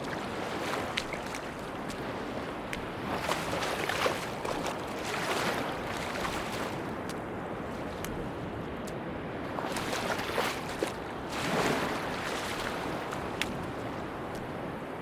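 Sea waves breaking and washing onto a beach, the surf swelling several times, with scattered small clicks.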